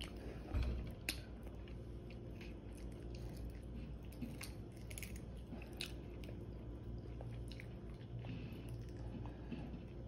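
Close-up mouth sounds of a person biting and chewing the crispy tip of an air-fried chicken wing: many small crunching clicks, with a slightly louder bite a little over half a second in.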